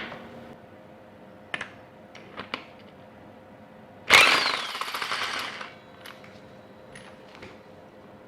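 A power tool gives a short, rapid rattling burst of about a second and a half, typical of undoing casing bolts on a Ducati 916 engine. Before it come a few light metallic clicks of tools and parts being handled.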